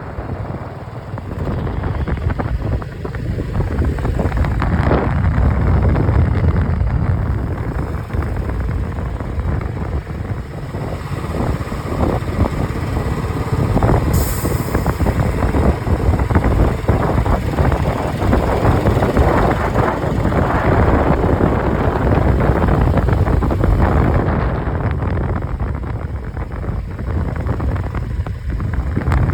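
Motorcycle riding along, its engine running steadily under loud wind rush on the microphone.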